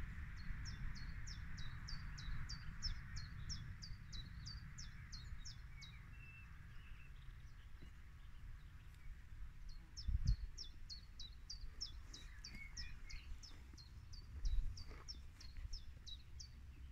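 A songbird singing two long runs of quick, repeated high notes, each note sweeping downward, the second run starting about ten seconds in. Beneath it a steady low rumble, with two soft low thumps.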